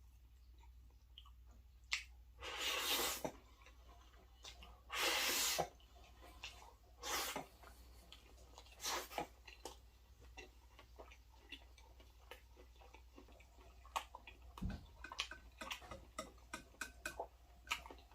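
Close-miked eating of creamy Alfredo pasta: a few short wet slurps in the first half, then a long run of quick, smacking chewing clicks.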